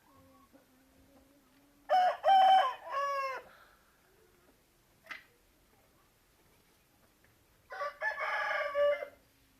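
Aseel rooster crowing twice, about six seconds apart, the first crow louder and ending in a falling drawl.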